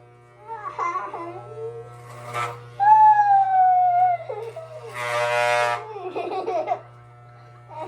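A young boy crying and wailing through a haircut, in long falling cries with a loud harsh scream about five seconds in, over the steady low buzz of electric hair clippers.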